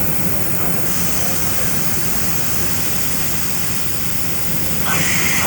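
Mazak Variaxis 730-5X II five-axis CNC machining center running with a steady mechanical noise. A high hiss joins it about a second in, and a louder hissing burst comes near the end.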